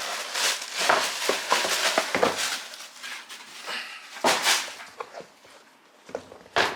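Shoe packaging being handled: rustling and crinkling of paper and a shoebox in several short bursts, with a sharper crinkle near the end.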